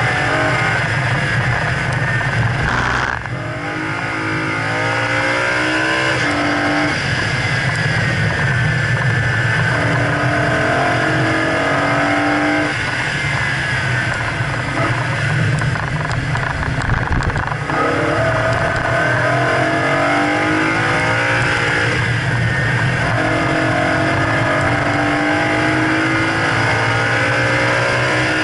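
BMW E92 M3's 4.0-litre V8 under hard acceleration on a track lap, its pitch climbing again and again through the gears. The pitch and level drop sharply at a shift or lift about three seconds in, with further drops partway through, over steady road and wind noise.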